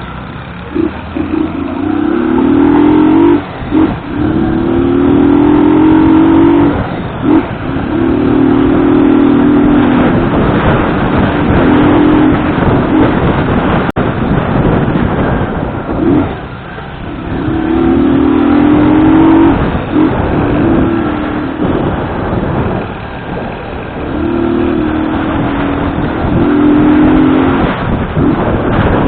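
Motorcycle engine under way, its note climbing in pitch again and again with short dips between, as it accelerates through the gears. Wind rushes over the microphone throughout.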